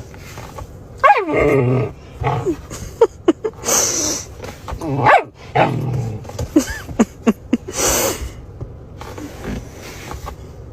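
A dog vocalizing in a string of short calls that slide up and down in pitch, with a few sharper calls about four and eight seconds in.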